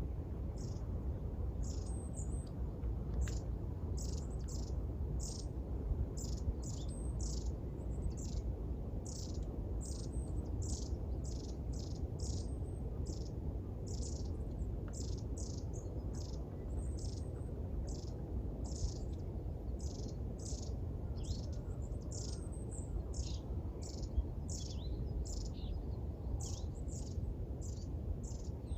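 Small songbirds chirping: quick, high-pitched chirps that drop in pitch, a few a second and almost without pause, over a steady low background rumble.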